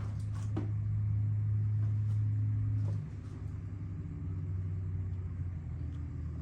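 Steady low motor hum that steps down in level and shifts pitch about three seconds in, with a few faint knocks near the start.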